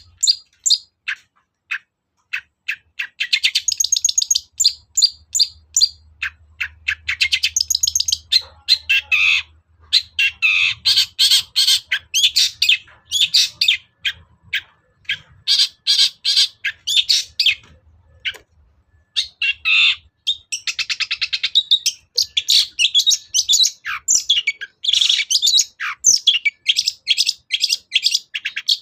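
Long-tailed shrike (cendet) singing in full voice: fast runs of scratchy, chattering notes with harsh squawks mixed in, and a brief pause about two-thirds of the way through.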